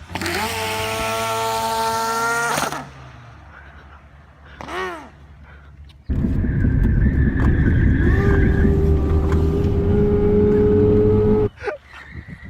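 Car engine revved hard and held at high revs for a couple of seconds, then a short blip of the throttle, then a second long hold at high revs lasting about five seconds that cuts off suddenly, all through a cheaply modified exhaust.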